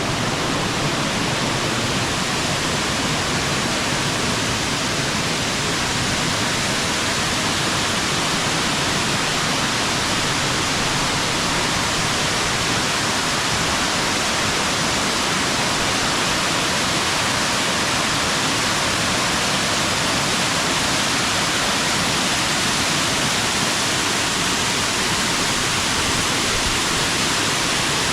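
Waterfall's falling water, a steady, even rush with no let-up.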